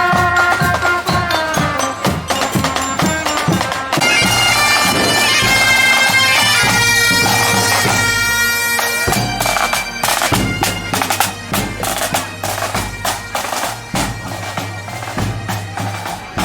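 Bagpipes playing a tune over their steady drone, with drums beating. From about ten seconds in, many sharp cracks go off over the music.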